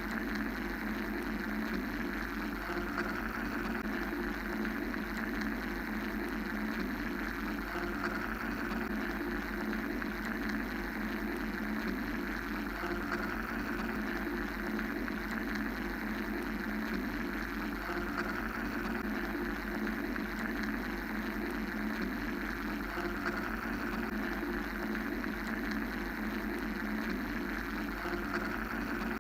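Steady mechanical white-noise drone: a low hum under a rushing hiss, swelling and easing gently every few seconds without a break.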